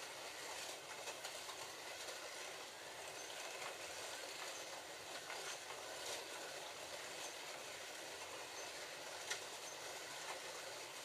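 Several slot cars running around a plastic track: their small electric motors whir steadily along with the rattle of the cars on the track, with a few brief clicks.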